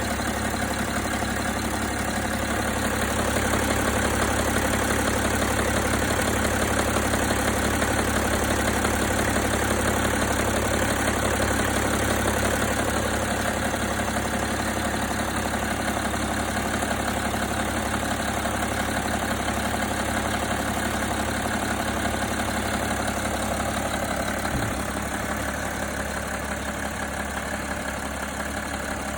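BMW M57N2 inline-six turbodiesel idling steadily with a distinct knock from around the turbocharger, whose cause the owner does not know.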